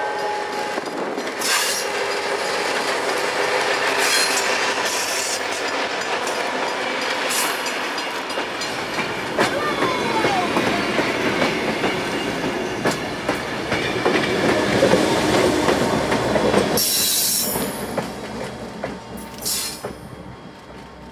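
Passenger train rolling past close by, its steel wheels clattering on the rails with several brief high-pitched wheel squeals. The sound fades over the last few seconds as the trailing GP40 diesel locomotive moves away.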